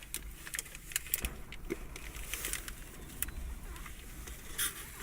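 Plastic snack packet being handled, crinkling and rustling in a scatter of short crackles.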